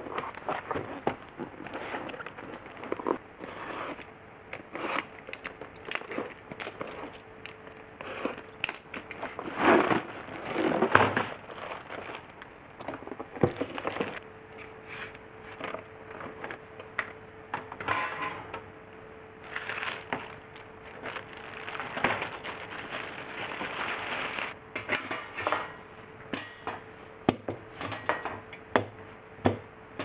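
Packaging and grill parts being handled during unboxing: irregular crinkling and crushing rustles with scattered sharp clicks and knocks.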